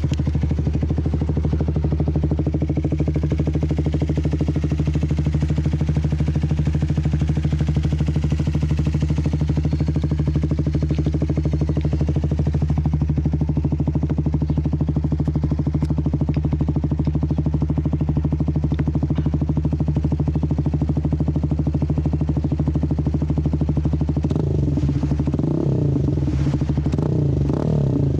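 Benelli Motobi 200 EVO's single-cylinder engine idling steadily through an OBK aftermarket exhaust. A second, wavering sound joins over the last few seconds.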